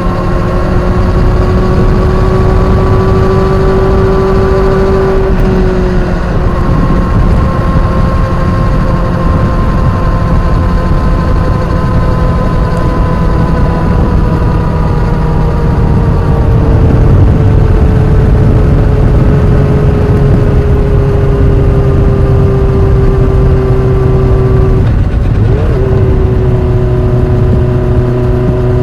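A new motorcycle's high-pitched drivetrain whine: several steady tones drifting slowly up and down in pitch over loud low noise, with a brief break and a shift in pitch about 25 seconds in. The owner suspects the whine may be normal straight-cut gear noise but is concerned about an undulating whirring present since the bike was new.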